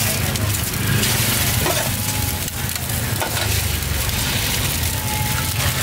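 Eggs frying in oil on a large hot flat wok, sizzling steadily, with a metal spatula scraping and tapping against the pan, over a low steady rumble.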